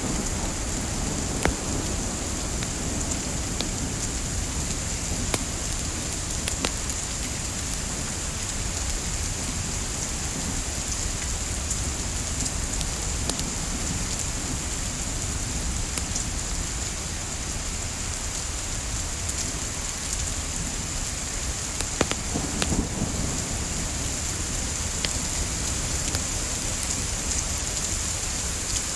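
Steady soft rain mixed with a crackling wood fire. Scattered sharp pops run throughout, with a cluster of louder ones about 22 seconds in.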